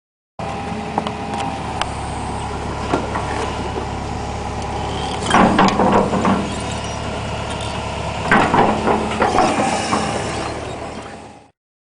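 Peugeot 306 1.9 turbo diesel field car's engine running steadily, with two louder, rougher spells about five and eight seconds in. It fades out near the end.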